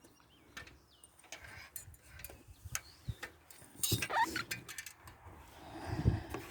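Footsteps walking at an uneven pace, a series of irregular soft thumps and clicks, with a few short bird chirps.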